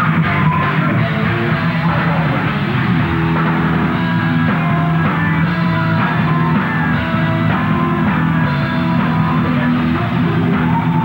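Live rock band playing a loud song, guitars and drum kit together, in a rough, raw live recording.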